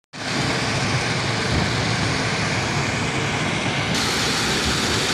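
Loud, steady running of heavy diesel machinery with a dense low rumble, starting abruptly.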